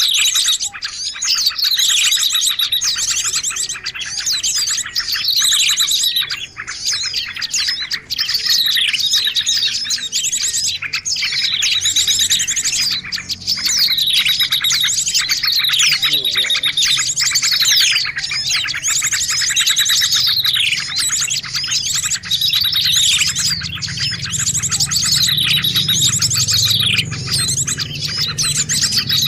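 Bird-lure recording of small songbirds: dense, overlapping chirping and twittering, with a falling call repeated about every two seconds. It is a lure-call mix made to draw small birds in for trapping.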